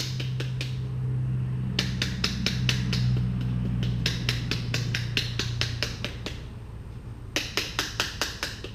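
Rapid bursts of sharp taps, several a second, as the dirty air filter from a Wright Stander mower is knocked against a hard surface to shake the dirt out. A steady low hum runs underneath and fades out about six seconds in.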